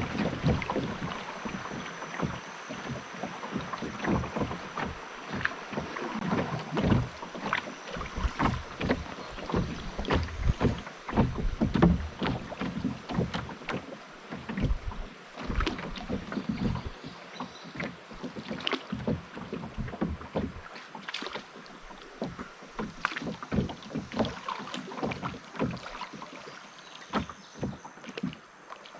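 Canoe being paddled along a river: water splashing and gurgling around the boat, with many irregular small knocks and clicks.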